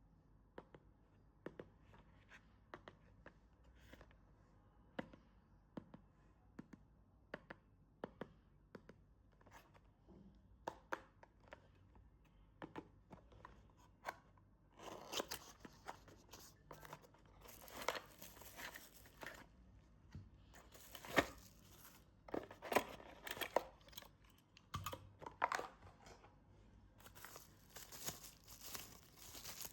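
Toy packaging being opened by hand: scattered light clicks and taps, then from about halfway, plastic wrapping and packaging rustling and tearing in repeated bursts.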